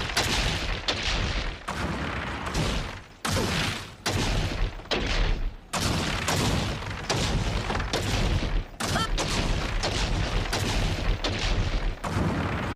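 Stone-breaking sound effects: a run of about a dozen heavy crashes of rock splitting and crumbling, each with a deep rumbling tail, one following another about every second.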